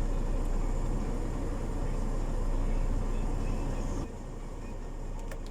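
A heavy truck's diesel engine idling, heard as a steady low drone from inside the cab. About four seconds in the drone drops suddenly to a quieter level, and a short click follows near the end.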